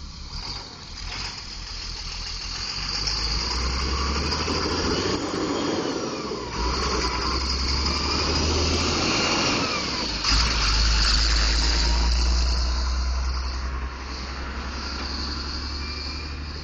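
Tow truck engine running with a deep rumble, its note rising and falling, and surging louder about six and ten seconds in, with road or wind noise over it.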